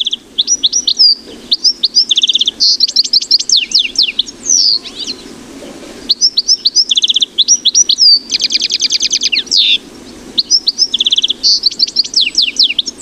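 Goldfinch singing: a rapid, varied twittering song of quick high notes, trills and buzzy runs, in two long phrases with a short pause around the middle.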